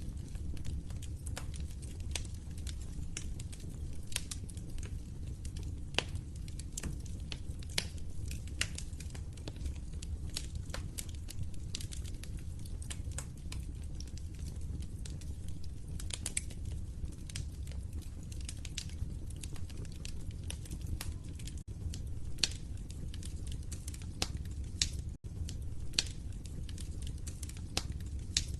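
Wood fire burning in a fireplace: a steady low rumble of flames with irregular crackles and pops, several a second.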